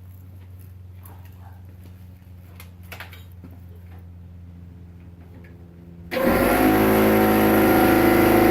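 Air compressor running with a steady low hum. About six seconds in, a pneumatic air saw starts suddenly and runs loudly, a dense buzz with hissing air.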